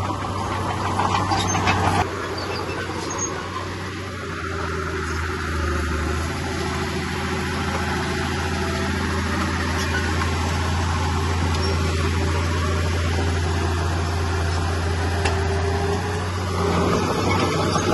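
Heavy earthmoving machine's diesel engine running steadily, a deep hum with a few light clanks on top; it gets slightly louder near the end.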